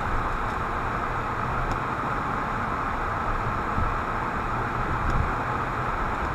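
Steady car road noise heard inside the cabin while driving: an even hiss over a low rumble of tyres and engine.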